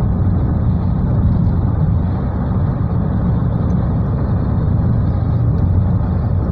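Steady low rumble of a moving car heard from inside the cabin: engine and tyres on a rain-soaked road, with no distinct events.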